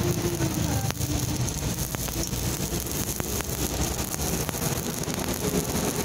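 Stick-welding arc from a Daiden 160A welder with a 2.6 mm electrode, a crackling hiss broken by several sharp clicks.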